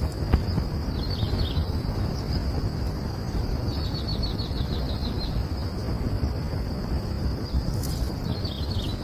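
Small birds chirping in short high runs, one quick series of about ten notes around four seconds in, over a steady high insect-like drone and a low outdoor rumble.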